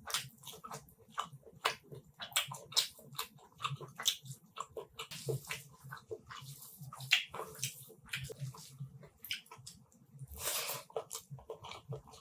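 Close-up eating sounds of a person chewing chicken curry with rice: wet chewing and lip-smacking with many quick sharp clicks, and a longer wet burst about ten and a half seconds in.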